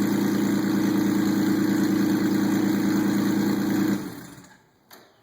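2000 Porsche 996 Carrera 2 flat-six, straight piped through aftermarket headers and cat bypass pipes with no mufflers, idling steadily, then dying away about four seconds in.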